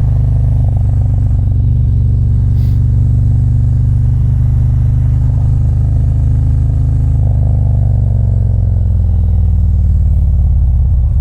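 Motorcycle engine running steadily under way, heard from the rider's seat, its pitch dropping a little about seven to nine seconds in as the bike slows.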